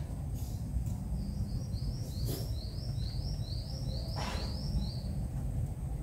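A small bird calling a quick series of about a dozen short, high, rising chirps, roughly three a second, over a steady low rumble. Two brief rustles come in the middle.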